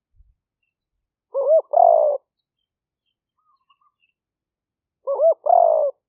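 Spotted dove cooing: two phrases about four seconds apart, each two short coos followed by a longer, falling coo. It is a captive decoy male giving its lure call.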